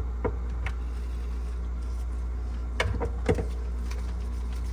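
Steady low hum from a powered-up refrigerator evaporator fan motor straining against corrosion that has left it stiff and barely turning. A brief vocal sound about three seconds in.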